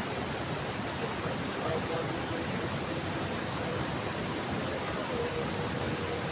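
Heavy rain falling steadily, an even hiss with no breaks, with a faint wavering hum underneath.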